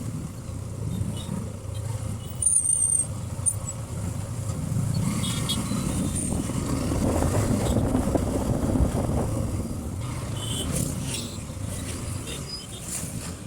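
Motorcycle ride on road traffic: a small single-cylinder engine running with a continuous low rumble and road and wind noise. A few short high-pitched chirps cut in about two and a half seconds in, and again midway and near the end.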